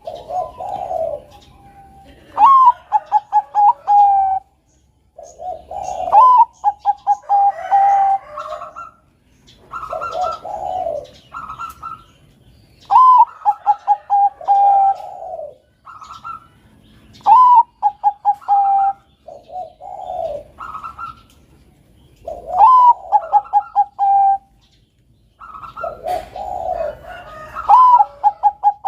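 Bangkok-strain perkutut (zebra dove) cooing its song over and over, about every four to five seconds. Each phrase is a rising note, then a quick run of short clipped notes, ending on a held note. Lower, softer coos come between the phrases.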